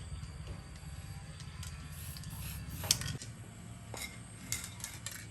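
Light metallic clicks and clinks of small hard objects being handled, over a low hum that cuts off suddenly about three seconds in.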